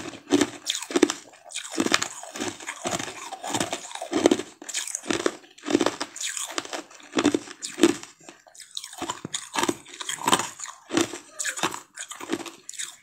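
Close-miked crunching and chewing of a frozen ice treat, about two crunchy chews a second.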